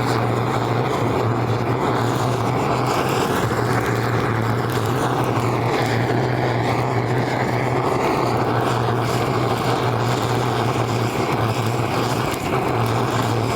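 A small motor running steadily with a low hum and a rushing noise, dying away right at the end.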